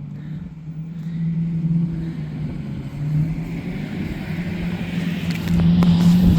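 Lamborghini Murciélago's V12 engine running at low revs as the car pulls up. The steady engine note rises a little now and then and grows louder toward the end.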